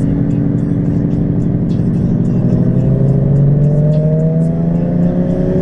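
Car engine running under steady throttle, then slowly accelerating, its pitch rising gradually from about halfway through, heard from inside a moving car.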